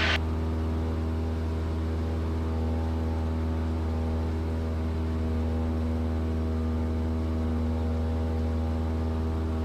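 Steady drone of a Cessna 172S Skyhawk's four-cylinder engine and propeller under climb power, heard inside the cabin. The pitch holds even throughout.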